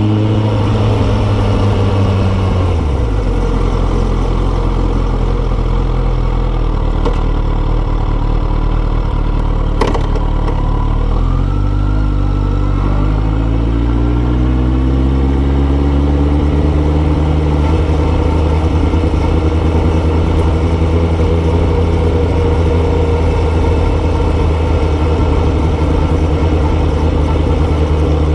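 Kawasaki ZX-14R's inline-four engine through a Yoshimura exhaust while riding: the engine note drops about three seconds in, climbs again from about eleven seconds as the bike accelerates, then holds at a steady cruise. A single short click near the middle.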